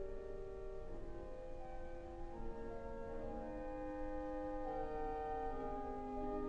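Refurbished synagogue sanctuary pipe organ playing slow, sustained chords, the held notes shifting one or two at a time.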